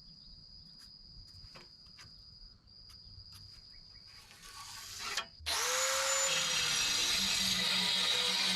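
Faint light clicks and taps, then about five and a half seconds in a power tool starts and runs steadily with a loud, hissing whir.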